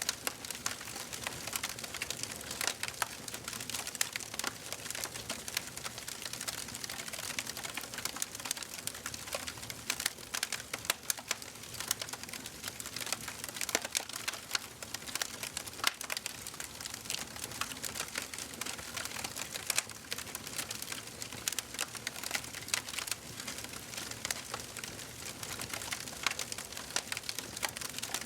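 Wood fire in a fireplace crackling and popping steadily, dense sharp snaps over a soft hiss of burning.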